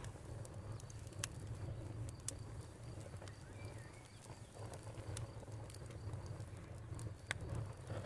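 Campfire crackling: sharp pops and snaps every second or so over a low, steady rumble.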